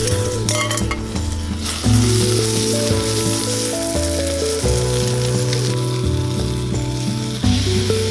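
Food sizzling in a frying pan, under background music with a melody over a bass line that changes note about every three seconds.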